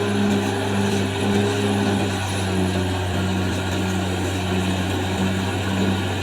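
Diesel engine of a Caterpillar D6R XL bulldozer running steadily under working load, its pitch dropping slightly about two seconds in.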